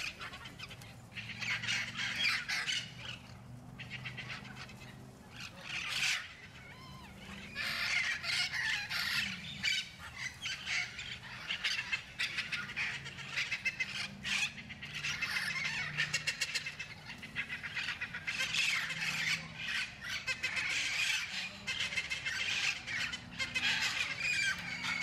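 A flock of feral Amazon parrots squawking, with many harsh calls overlapping almost without a break and a quieter stretch a few seconds in.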